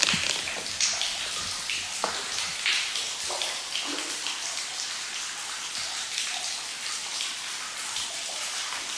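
Spirit box radio scanner sweeping through stations: a continuous choppy hiss of static broken by frequent clicks and brief fragments of radio sound.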